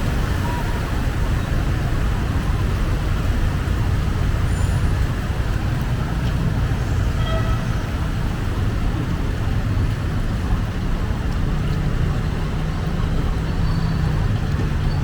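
Steady city street traffic: vehicle engines and tyres in a continuous low rumble. A nearby engine's hum stands out for a few seconds past the middle.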